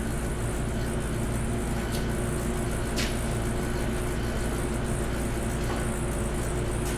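Steady mechanical hum with a constant low drone, broken only by two faint light clicks about two and three seconds in.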